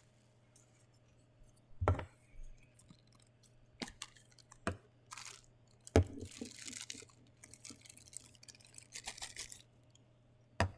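Plastic packaging being rustled and torn open by hand, in short bursts, with a few light knocks of things set down or handled.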